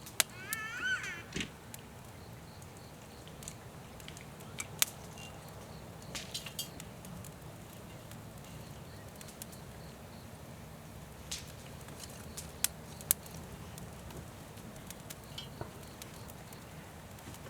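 Wood fire crackling, with sharp, irregular pops and snaps scattered across several seconds over a steady low rumble. About half a second in there is a brief, wavering high whistle.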